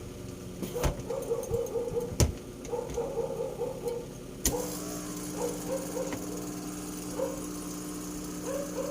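A hair dryer switched on with a click about halfway through, its motor giving a steady hum until it cuts off at the end; short high yips come in quick runs before it starts.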